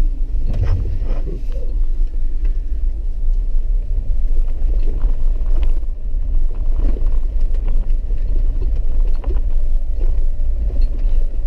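Four-wheel-drive vehicle driving a rough, wet dirt road, heard from inside the cabin: a steady low rumble with scattered knocks and rattles throughout.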